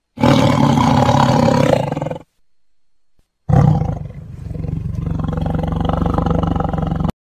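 Tiger roaring twice: a roar of about two seconds, then after a short pause a longer one that dips about halfway through and swells again.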